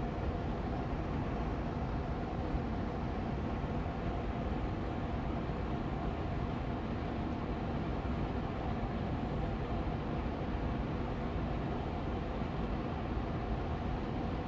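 Air purifier fan running steadily on medium speed: an even rushing hum of moving air with a faint steady tone in it.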